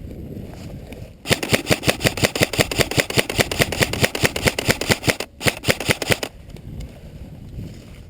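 Airsoft rifle firing on full auto close to the microphone: a rapid, even stream of sharp shots for about four seconds, a brief break, then a shorter burst.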